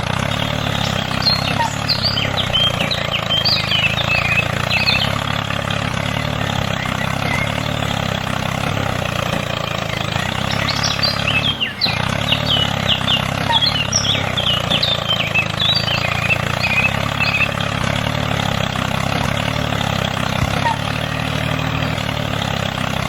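An engine idling steadily, with birds chirping in bursts over it.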